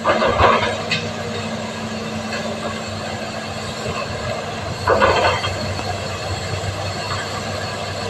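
Excavator's diesel engine running steadily, with two louder bursts of clatter, one at the start and one about five seconds in.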